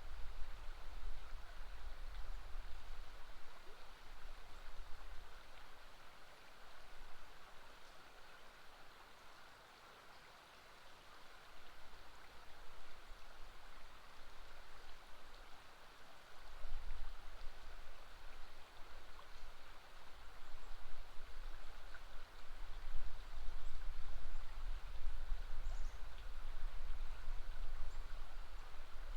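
River water flowing steadily, an even rushing hiss, with a low rumble underneath that fades away after the first few seconds and comes back about halfway through.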